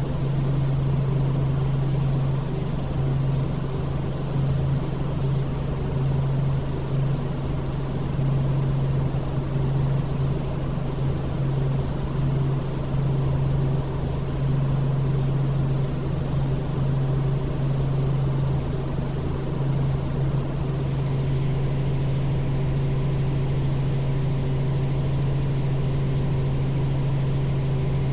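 Robinson R44 helicopter in flight: the steady drone of its piston engine and rotors, one strong low hum with fainter tones above it, holding the same level throughout.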